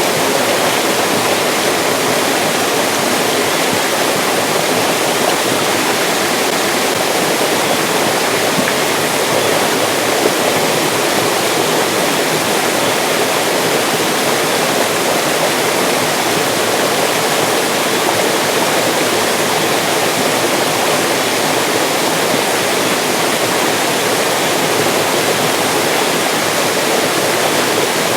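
Mountain stream rushing over rocks, a steady, even water sound.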